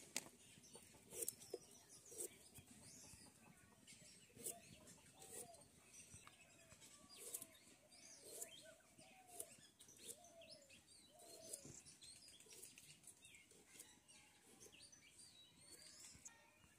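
Faint outdoor background of birds: short high chirps, with short low calls that repeat roughly once a second through the middle, and a few scattered light clicks.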